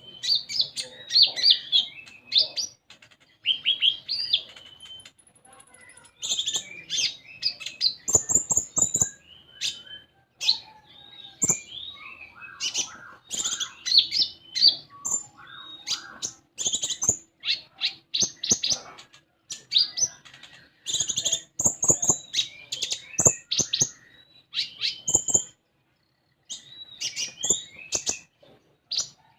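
Konin songbird in full song: a rapid, varied stream of high chirps, trills and short whistles, broken near the end by a pause of about two seconds.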